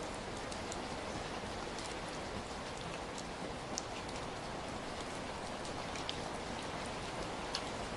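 Steady rain, an even hiss with scattered individual drops landing close by as short, sharp ticks.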